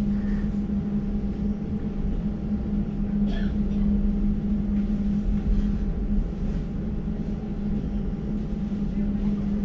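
Steady hum from an Elizabeth line Class 345 train, heard inside the carriage while it stands at the platform: one constant low tone over a low rumble.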